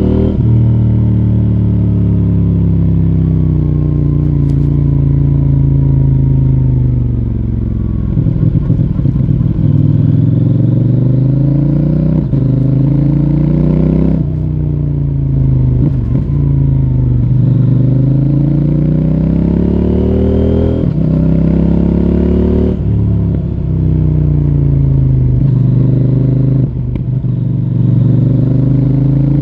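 CFMoto 800NK Advanced's parallel-twin engine through its stock exhaust while being ridden. The revs fall and rise again several times as the throttle is rolled off and back on.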